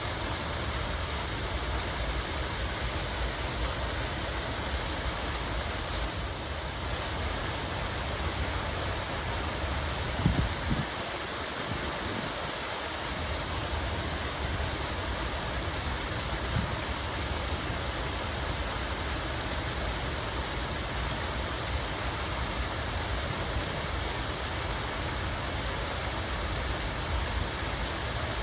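Steady rush of flowing water, even and unbroken, over a low rumble. There is a brief low thump about ten seconds in.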